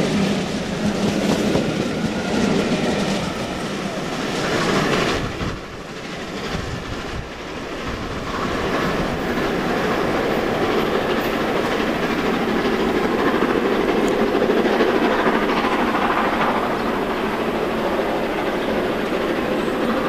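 Steam-hauled train of passenger coaches rolling away from the platform, wheels clicking over the rail joints.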